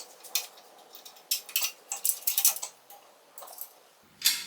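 Small metal parts clinking and tapping as they are handled and fitted, a string of light irregular clicks with a sharper knock near the end.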